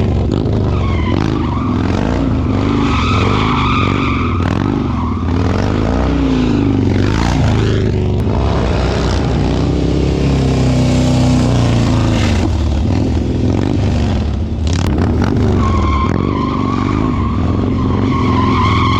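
Harley-Davidson motorcycle engine revving up and down continuously while the bike drifts in circles, with the rear tyre skidding on the pavement.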